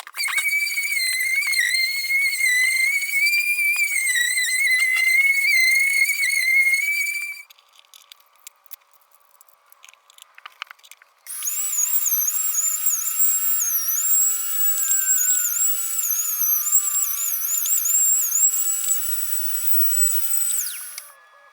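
Circular saw motor of a homemade table saw (Makita M585, 190 mm) running with a high whine whose pitch wavers slightly. It stops about seven seconds in, leaving a few small clicks, then starts again about eleven seconds in and runs until just before the end.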